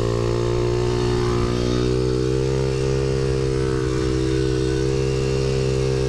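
Supermoto pit bike's single-cylinder engine running under way with its exhaust baffle removed, quite loud. The revs rise slightly in the first two seconds, then hold steady.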